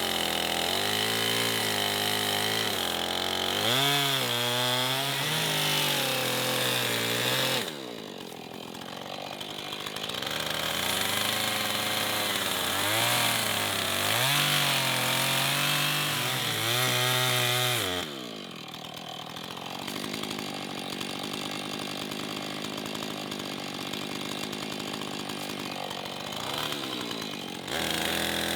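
Chainsaw cutting through hawthorn branches, its engine revving up and down under load. It falls back to a lower, quieter run twice, once about 8 seconds in and again for a long stretch in the second half, before revving up near the end.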